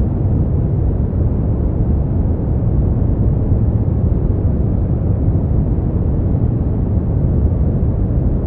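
Steady, even noise from a sleep-aid noise track, weighted heavily toward the bass so it sounds like a deep, unbroken rumble with no bright hiss on top.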